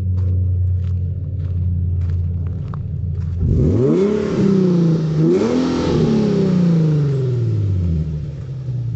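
Infiniti G37X's 3.7-litre V6 idling, then revved twice, about three and a half and five seconds in. Each time the pitch climbs quickly and sinks back, and the engine settles to idle near the end.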